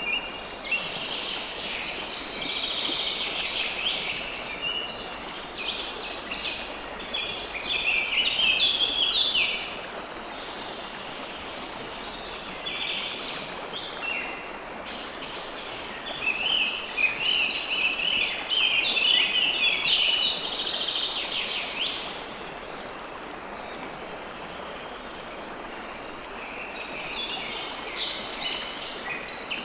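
River water flowing steadily, with songbirds chirping over it in long, busy bouts of quick high notes that come and go, pausing for a few seconds between bouts.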